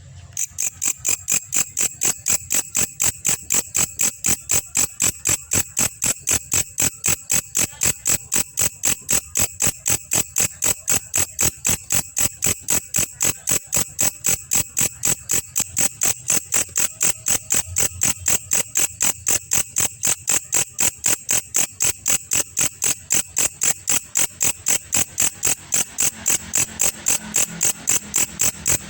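Belalang kecek insect singing: a fast, even series of sharp, high-pitched chirps that never changes pace.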